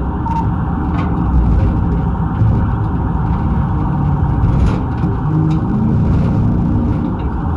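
Motor vehicle driving at speed: a heavy low rumble of engine and road noise, the engine pitch shifting up and down, with a few faint clicks.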